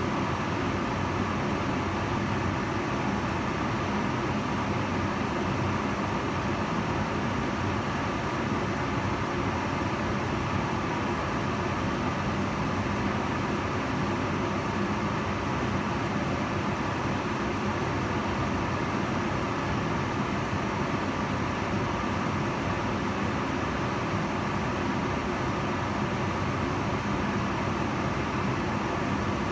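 Kitchen range hood's extractor fan running steadily: an even rushing air noise with a faint low hum.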